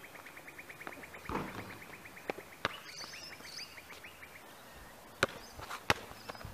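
A bird's rapid trill, a run of short high notes at about ten a second, lasting some four seconds, with a few higher chirps partway through. Near the end a basketball bounces sharply on the asphalt court a few times.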